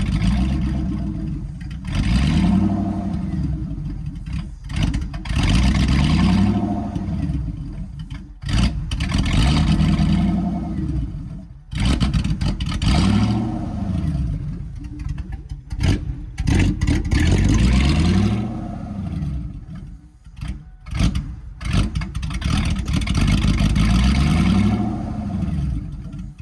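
Lincoln Mark VIII's 4.6-litre DOHC V8 running open at the headers with the catalytic converter removed, being revved about six times, each rev climbing and falling back to idle. It is loud throughout.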